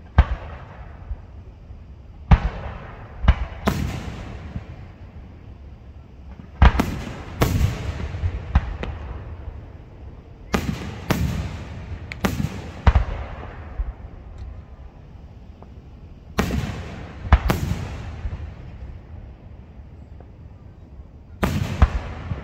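Aerial fireworks shells bursting: about fifteen sharp booms at irregular intervals, some in quick pairs and others a few seconds apart, each trailing off in an echo.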